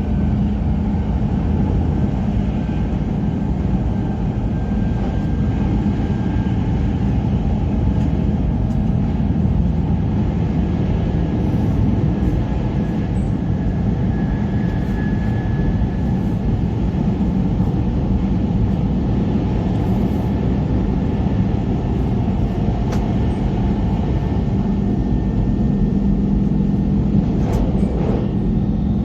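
E5 series Shinkansen train running at speed, heard from the passenger cabin as a steady, unbroken rumble with a faint high whine drifting above it.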